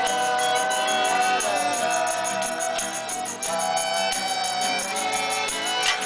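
Amateur acoustic group jamming: sustained melody notes that slide in pitch, over a steady high jingling rhythm of about five beats a second.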